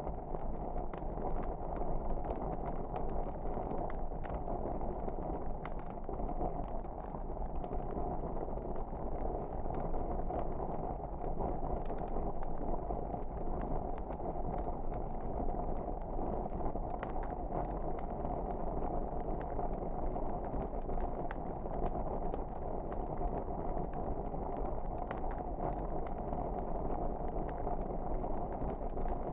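Wood fire burning in a fireplace: a steady low rushing of the flames with frequent small sharp crackles and pops scattered throughout.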